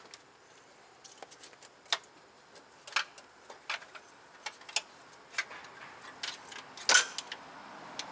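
Scattered light metallic clicks and taps, with one louder knock about seven seconds in, from power steering lines being worked down from the steering rack under a car.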